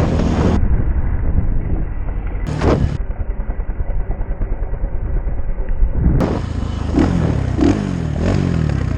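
Dirt bike engine running as the bike is ridden across the desert, its pitch rising and falling several times near the end as the rider works the throttle.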